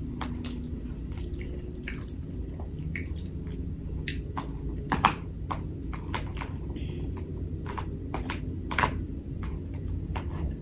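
Close-up chewing and wet mouth clicks of someone eating, with irregular sharp clicks and a louder click about five seconds in and again near nine seconds.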